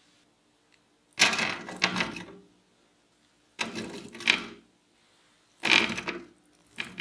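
Three bursts of clattering food-preparation handling, each about a second long and made of quick strokes, with a short fourth one near the end.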